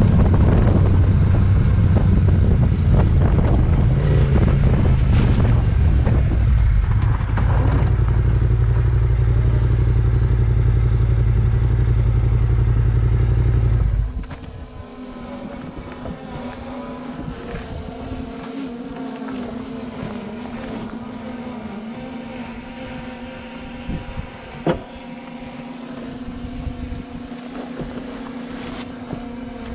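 Adventure motorcycle riding: heavy, steady low rumble of engine and wind noise, which drops off suddenly about halfway through to a quieter, steady engine hum.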